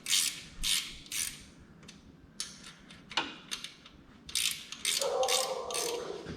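Socket ratchet wrench clicking in short bursts of strokes as bolts on a small-block engine are loosened, with a short squeak about five seconds in.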